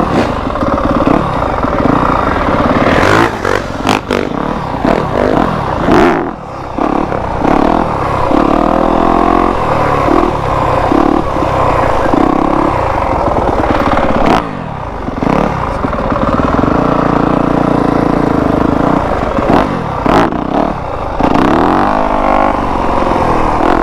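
Dirt bike engine running under throttle, its pitch climbing and dropping again and again as it revs up and backs off.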